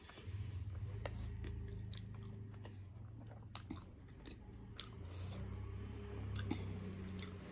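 A person chewing a mouthful of steamed momo dumpling with the mouth closed, with scattered wet mouth clicks and smacks. A low steady hum runs underneath, starting a moment in.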